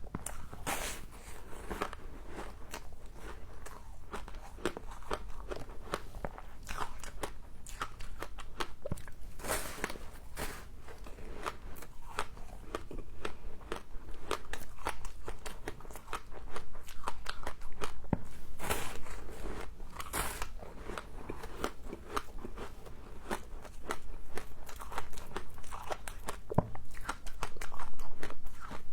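Close-up crunching and chewing of humidifier frost: a dense run of sharp, crackly crunches, louder in clusters about two-thirds of the way in and near the end.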